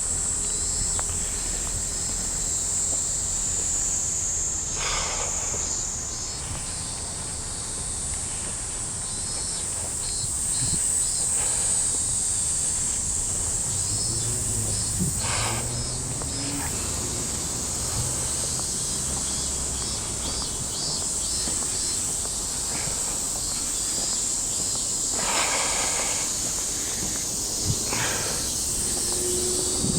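Summer cicadas droning in a continuous high, steady buzz, with faint ticking calls mixed in.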